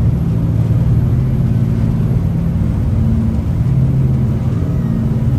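Jet boat's turbo diesel engines running at speed, a steady low drone that swells and eases slightly, under a rushing hiss.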